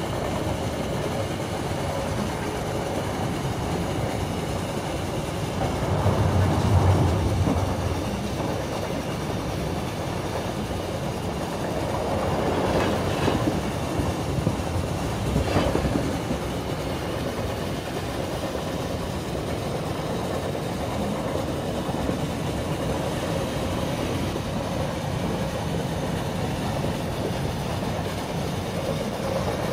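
Railway carriage in motion, heard from inside a passenger compartment: a steady rumble of wheels running on the track. It swells louder about six seconds in and again for a few seconds in the middle.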